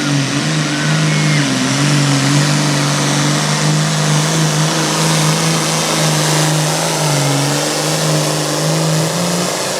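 Classic super stock pulling tractor's engine running at high, steady revs under load, with its loud exhaust, the pitch wavering slightly; the note drops just before the end as the run winds down.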